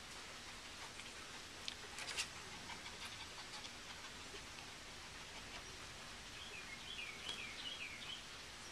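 Eight-week-old puppies giving short, faint, wavering high whimpers near the end, with scattered small clicks and taps over a steady hiss.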